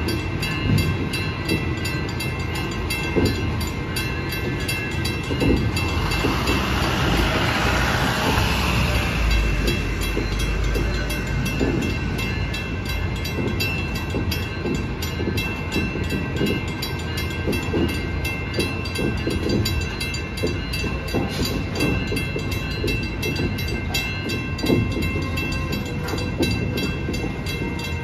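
Freight cars loaded with lumber rolling through a grade crossing, the wheels rumbling and knocking irregularly over the crossing and rail joints. A crossing bell rings steadily throughout. A brief rushing noise swells and fades about seven to nine seconds in.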